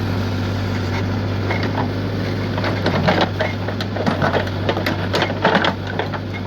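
Diesel engine of heavy machinery running steadily with a low hum, with short knocks and voices over it from about a second and a half in.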